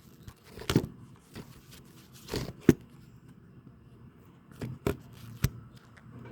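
Scattered sharp clicks and knocks, about six of them, the loudest a little under three seconds in, over a faint low hum.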